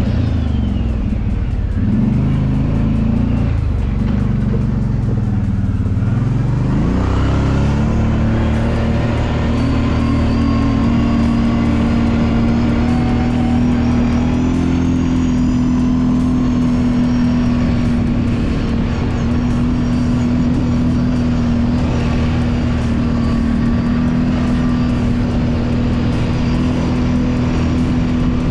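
Kawasaki Brute Force 750 ATV's V-twin engine running while riding. Engine speed dips and rises over the first several seconds, then holds steady.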